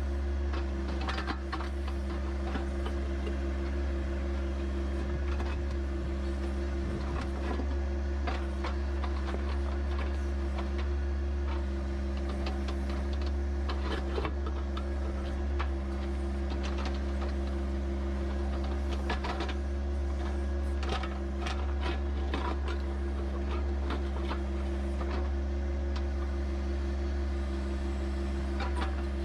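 A compact tractor's three-cylinder diesel engine runs at a steady speed, with scattered light clanks and knocks over it.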